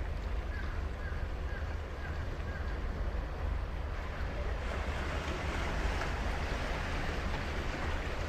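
Ocean waves breaking and washing on a sandy beach, the surf swelling louder about halfway through, with a low wind rumble on the microphone.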